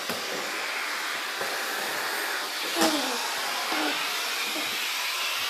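Vacuum cleaner running with a steady hiss of suction, with a brief bump about three seconds in.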